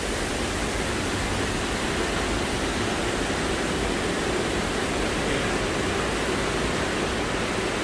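Steady, fairly loud rushing hiss spread evenly from low to high pitch, with a faint uneven rumble underneath, unchanging throughout.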